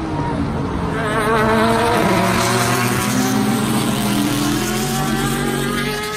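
A car engine pulling hard under acceleration, its pitch climbing steadily, used as the sound behind a logo animation. It cuts off near the end.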